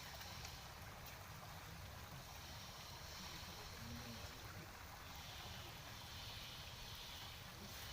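Faint steady background noise: a low rumble with a light hiss and no distinct events.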